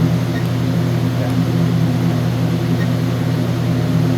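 Steady low hum from running equipment, with a few faint short high beeps.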